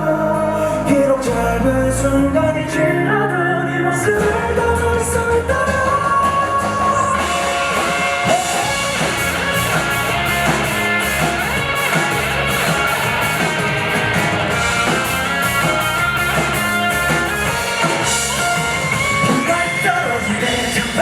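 Pop-rock band music with singing, guitar and drums; the band grows fuller and brighter about seven seconds in.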